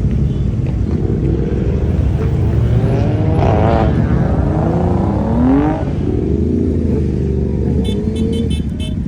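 Car engine running with a low rumble, its pitch rising and falling several times midway as it is revved. A quick run of clicks near the end.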